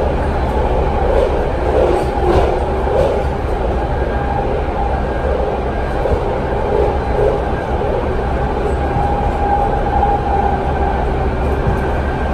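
BART rapid-transit train running at speed, heard inside the passenger car: a steady rumble of wheels on rail with a faint whine.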